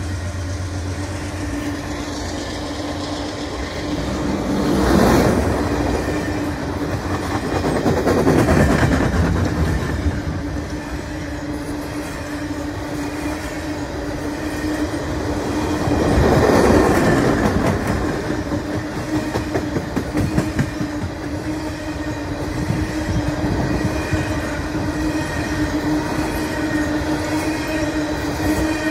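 Freight train of open-top hopper cars rolling past close by, steel wheels clattering over the rail joints. The clatter swells louder a few times as sets of trucks pass, over a steady tone.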